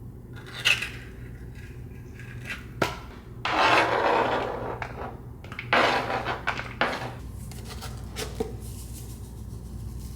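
Household handling sounds, likely dishes and utensils: a few sharp clinks and knocks, with two longer noisy stretches about three and a half and six seconds in.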